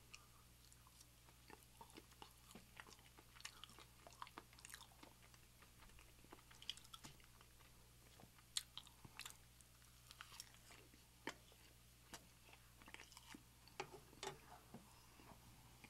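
Faint, close-miked chewing and wet mouth clicks of a person eating, irregular throughout, over a steady low hum.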